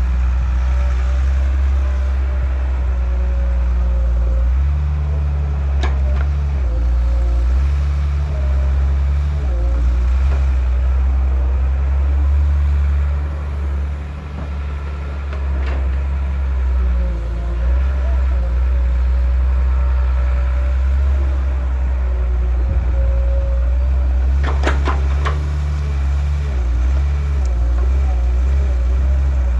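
Diesel engines of a JCB loader and a TAFE tractor running steadily during sand loading, with a wavering mid-pitched whine over the low drone. There are sharp knocks twice, then a quick cluster of knocks near the end.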